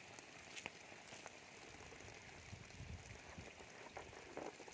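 Near silence: a faint steady hiss with a few soft clicks and a brief low rumble about halfway through.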